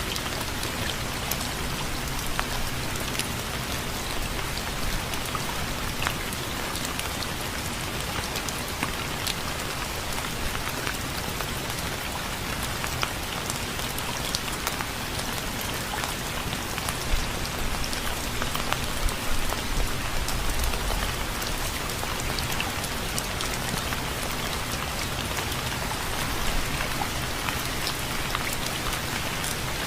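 Steady rain falling on a surface, an even hiss with the ticks of separate drops, swelling slightly in the low end about two thirds of the way through.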